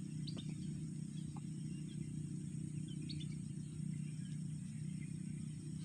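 Faint, scattered short bird chirps over a steady low hum of outdoor background noise.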